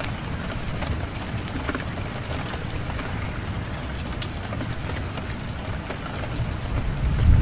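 Fireplace fire crackling with many small, irregular pops over a low rush of wind; the wind rumble swells near the end.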